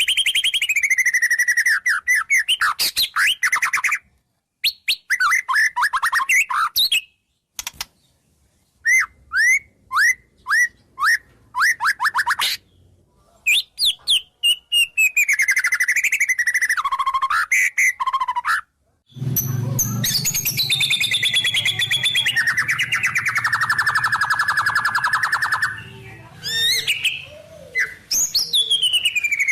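White-rumped shama (murai batu) singing a varied song of rapid whistled and chirping phrases, broken by short silences. About two-thirds of the way through, a long unbroken run of song begins with a low hum beneath it.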